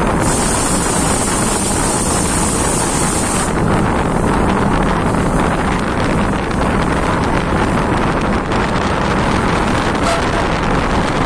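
Wind rushing over the microphone held out of a moving train's window, with the train's running noise underneath, steady and loud. A sharper high hiss rides on top for the first three seconds or so.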